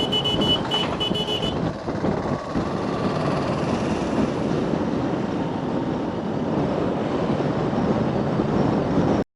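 Steady vehicle and engine din, with a rapid high electronic beeping for the first second and a half. The sound cuts off suddenly near the end.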